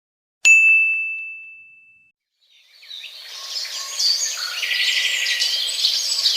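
A single bright ding, one bell-like tone that rings out and fades over about a second and a half. After a short gap, birds chirping and singing, many at once, fading in and going on.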